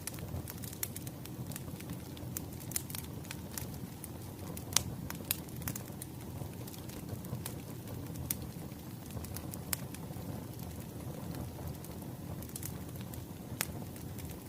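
Wood fire crackling: a steady low rumble of burning logs with irregular sharp pops and snaps, the loudest a little under five seconds in.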